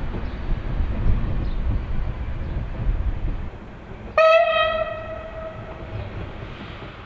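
Train running with a steady low rumble that drops away a little past three seconds in; about four seconds in a train horn sounds one sudden blast that fades out over about two seconds.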